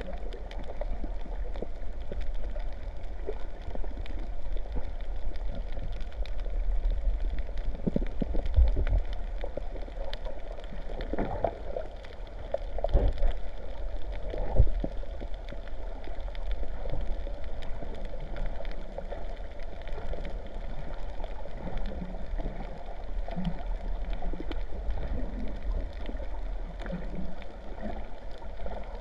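Sea water sloshing and gurgling around the camera, muffled, with a constant low rumble and a few louder surges of water about a third and halfway through.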